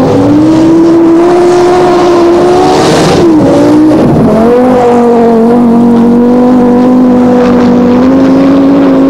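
Group B rally car engine running hard at high revs: the pitch climbs for about three seconds, dips and recovers once, then holds nearly steady.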